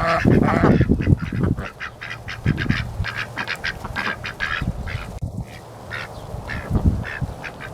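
Domestic ducks quacking in a rapid run of short, repeated calls, with a loud low rumble in the first second.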